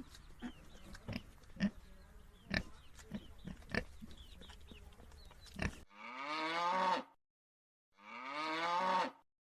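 Farm animal sounds. First come short low grunts and clicks. Then, about six seconds in, a different animal gives two long calls of about a second each, two seconds apart.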